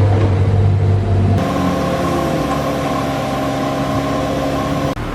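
Car engine running with a steady hum. The tone changes abruptly about a second and a half in, and the sound dips briefly near the end.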